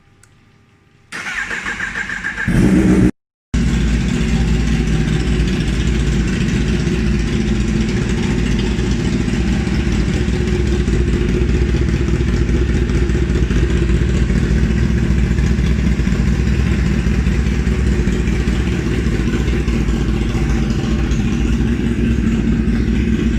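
Kawasaki ZX-10RR's inline-four engine being started through a baffle-less, catalyst-less SC-Project CR-T titanium exhaust: the starter cranks for about a second, the engine catches loudly, and after a half-second break in the sound it settles into a steady, very loud idle.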